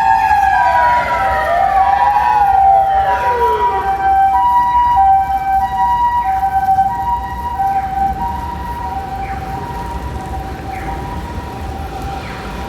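Emergency vehicle sirens: a wailing siren sweeps up and down, then drops away and stops about four seconds in. Alongside it, a Japanese ambulance's two-tone 'pee-poh' siren alternates steadily between a high and a low pitch, growing fainter in the second half.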